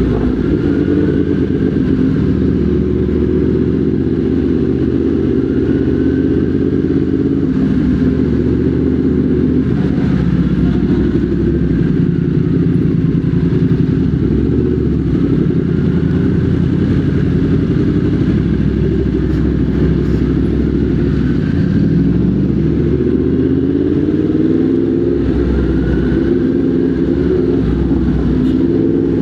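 Motorcycle engine running while riding in traffic, loud and steady, its pitch rising and falling again and again with the throttle.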